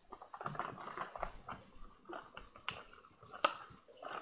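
Crackling and sharp clicks of a Hot Wheels cardboard-and-plastic blister package being handled and torn open, with one louder snap about three and a half seconds in.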